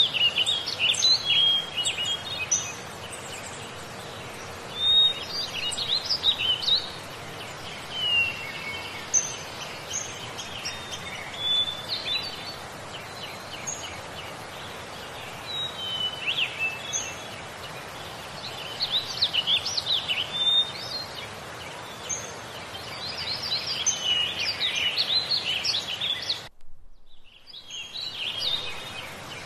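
Small songbirds chirping and trilling in short scattered phrases over a steady background hiss; the sound drops out briefly near the end.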